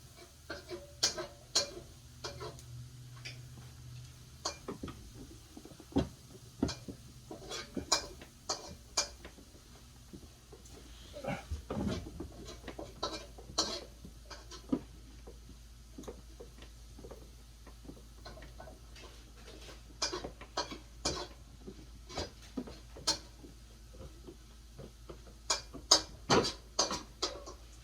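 Irregular clicks, knocks and clatter of hard parts being handled, coming in clusters with short pauses between, over a faint steady low hum.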